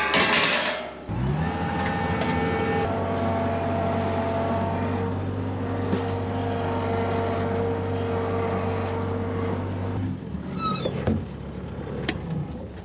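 Vehicle engine coming up in pitch about a second in, then running steadily. It gives way to a quieter, rougher sound about ten seconds in.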